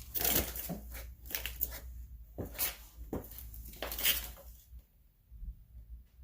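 Metal tools and car parts clinking and clattering as they are handled, in a string of knocks over the first four and a half seconds, then quieter.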